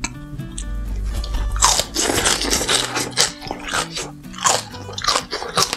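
Crisp crunching as a leaf-mustard kimchi (gat kimchi) stem is bitten and chewed, starting a little over a second in and repeating about twice a second, over background music.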